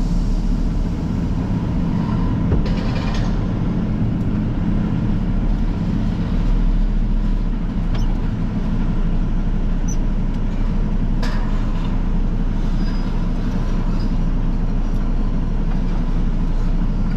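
Semi truck's diesel engine running steadily, heard from the cab, with brief hisses about three and eleven seconds in.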